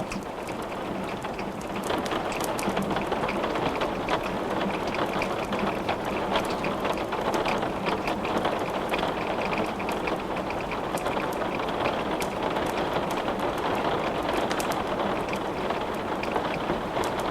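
Steady rain falling, with scattered sharp crackles and pops from wood burning in a fireplace; the rain grows a little louder about two seconds in.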